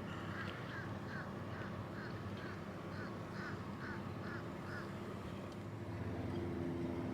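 A marsh bird calling, a run of about a dozen short, harsh notes at roughly two a second that stops about five seconds in, over the steady low rumble of an idling car.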